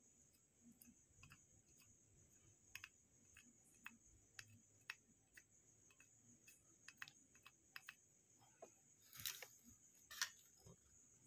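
Faint, irregular light clicks and taps of small hand tools working on a phone's circuit board and display connector, with two louder clicks near the end, over a faint steady high-pitched whine.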